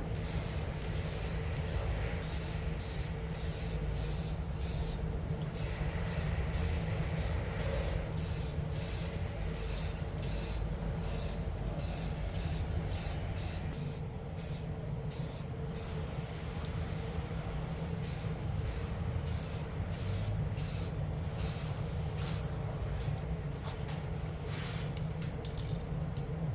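Compressed-air paint spray gun hissing in many short, repeated bursts over a steady low hum.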